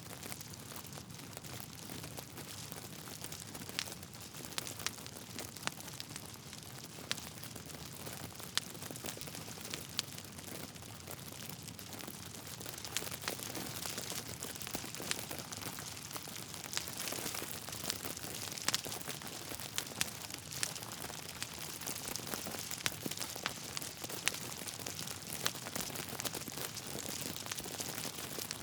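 Logs burning in a fireplace: a steady hiss with irregular crackles and sharper pops, a little louder from about halfway.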